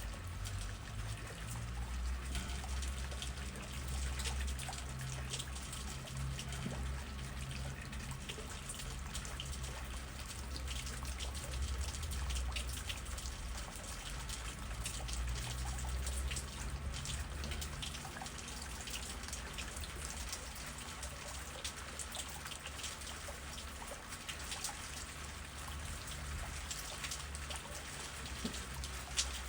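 Steady rain with many separate drops pattering and dripping, over a low rumble of wind that eases off after about fifteen seconds.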